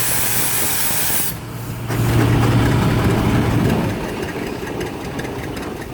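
Steam hissing loudly and then cutting off about a second in, typical of a steam engine blowing off through its pop valve. An engine follows, with a steady low hum and then a faster rattling beat near the end.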